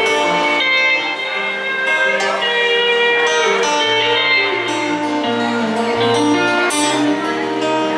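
Instrumental break of a live country song: acoustic guitar strumming under a steel guitar playing held notes that slide up and down in pitch.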